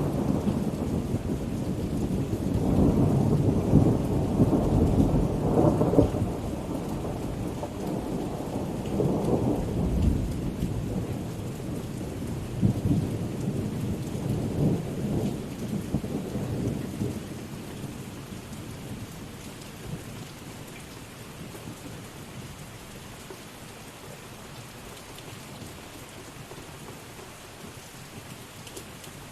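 Thunder rolling and rumbling over steady rain, the rumble strongest in the first half and dying away after about 17 seconds, leaving the rain hiss alone.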